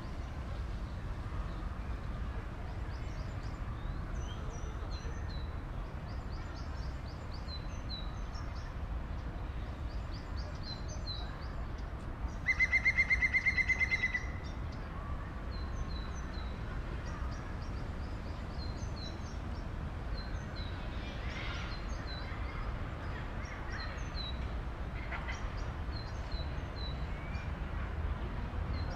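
Small birds chirping over a steady low rumble of city background. About halfway through comes a much louder, fast-pulsing trill lasting about a second and a half.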